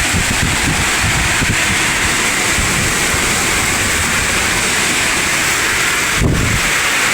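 Heavy rain pouring with strong wind buffeting the microphone: a steady loud hiss over an uneven low rumble, with one stronger gust about six seconds in.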